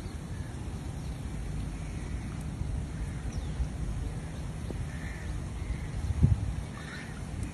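Crows cawing: about five short harsh calls scattered through, over a steady low rumble. A single low thump comes a little after six seconds and is the loudest moment.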